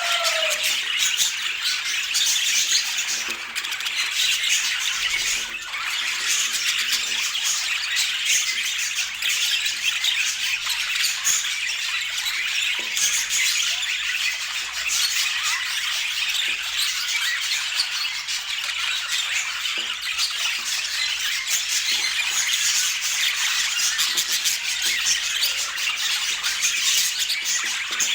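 Budgerigars chattering continuously, a dense scratchy warble of squawks and chirps.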